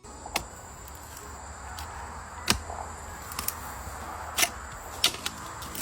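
A hand digging tool chopping into stony soil, with four sharp strikes spaced one to two seconds apart over a steady rustle of loosened earth and stones.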